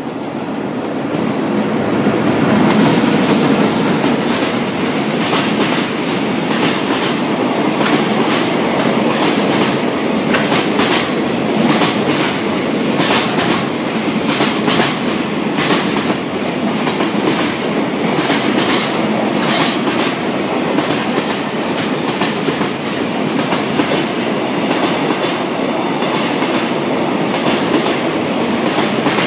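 A JR Freight EH500 electric locomotive passes at speed, followed by a long train of container wagons. The wheels clatter over the rail joints with many quick clicks over a steady rumble. The sound builds over the first couple of seconds as the locomotive comes alongside.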